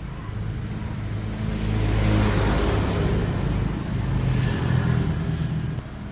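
A motor vehicle engine passing close by: it grows louder about two seconds in, swells again later and drops away just before the end.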